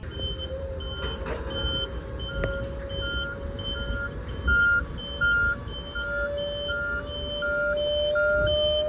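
Isuzu FTR750 truck's warning beeper sounding in two alternating pitches, high and low, about three beeps a second, over the diesel engine running with a steady whine that rises slightly.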